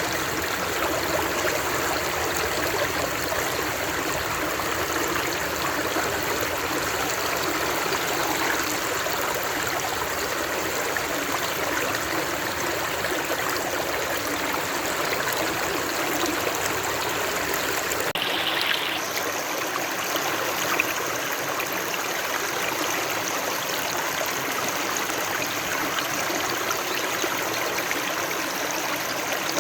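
Steady rush of flowing water, like a stream. About 18 seconds in, the sound changes abruptly and loses its low rumble.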